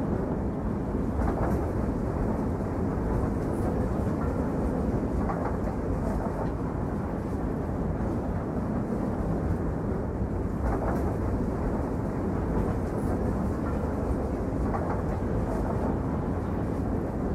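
Train running on the rails: a steady rumble with a few faint clicks, typical of wheels passing over rail joints.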